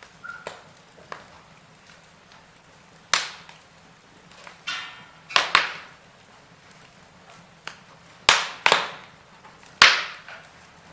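Wood fire in a fireplace crackling: scattered small crackles and several loud, sharp pops that fade quickly, the loudest about three seconds in and a cluster in the second half, over a faint steady background.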